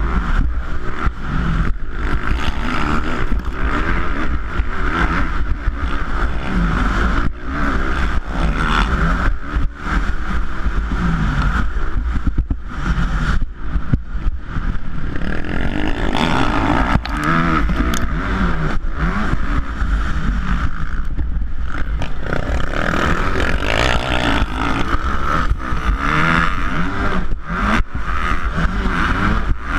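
450cc motocross bikes racing, their engines revving up and down continuously with many brief throttle cuts.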